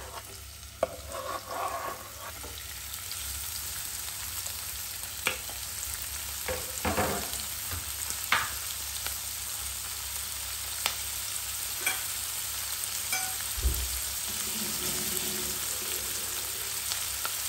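Diced onion and tomato sizzling steadily in hot oil in a nonstick pan, with a few scattered clicks and knocks.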